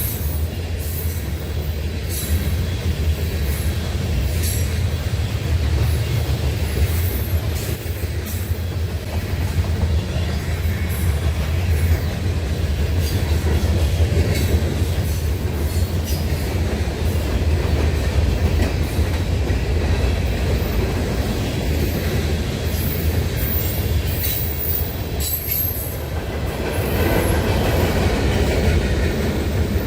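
Freight train rolling past, with a steady low rumble and frequent sharp clicks of wheels over the rails. A high wheel squeal rises about three quarters of the way through.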